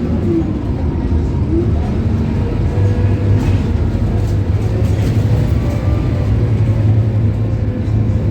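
Scania K280UB bus's Scania DC9 diesel engine running steadily with a continuous low hum.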